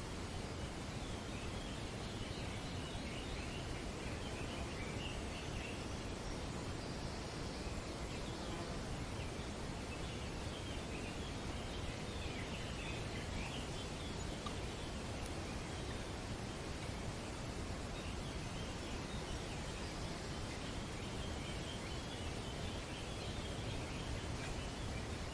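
Steady outdoor ambience of wind rustling through tree foliage, with birds chattering in patches every several seconds.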